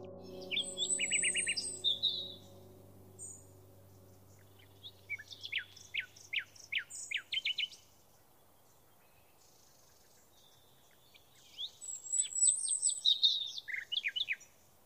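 A songbird singing three short phrases of quick, high, downward-sweeping chirps, a few seconds apart. A low steady tone fades out over the first few seconds.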